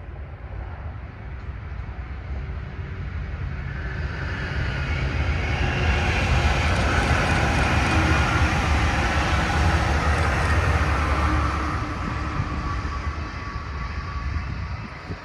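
Brightline high-speed passenger train passing at speed, a rumble and rushing noise that swells to a peak midway and then fades as it moves away.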